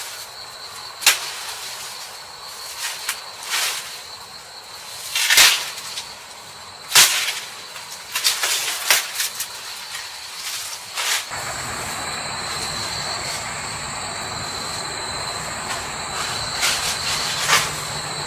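Insects chirring steadily in forest, with scattered sharp knocks and clatters from camp work. About eleven seconds in, the background shifts to a fuller, noisier insect chorus.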